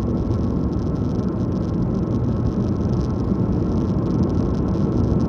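Steady car road noise heard from inside the cabin while driving: engine hum and tyre rumble at an even speed.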